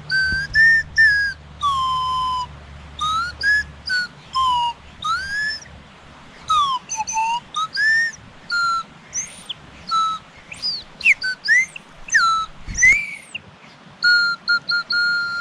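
Small owl-call flute played by a child: a string of short whistled notes that slide up and down in pitch, ending on a longer held note.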